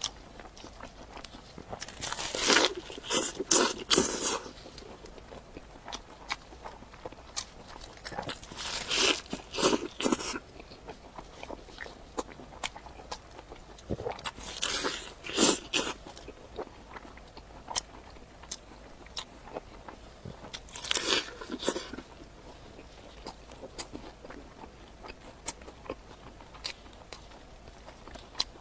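A person biting into a crisp cai jia mo (baked bun stuffed with vegetables), four crunchy bites spaced about six seconds apart, with quieter chewing clicks between them.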